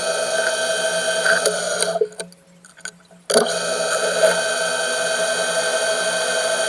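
Metalworking machine tool running with a steady, many-pitched whine. It cuts off about two seconds in and starts again a second later.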